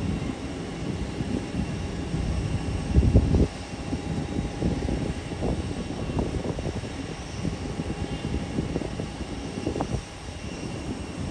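Airbus A320neo jet engines running with a steady roar and a few thin, steady high tones, over an irregular low rumble that swells briefly about three seconds in.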